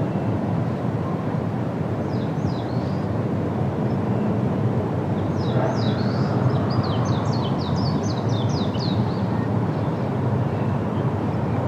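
Steady rush of wind through forest foliage, with a small songbird singing over it: a short phrase of quick falling notes about two seconds in, then a longer run of rapid falling notes from about five and a half to nine seconds.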